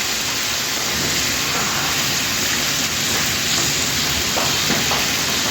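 Chicken pieces deep-frying in hot oil, a steady sizzling hiss with small crackles.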